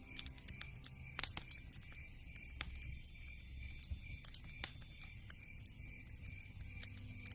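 Campfire crackling, with irregular sharp pops and snaps over a low, even rumble. A faint high chirp repeats about twice a second behind it.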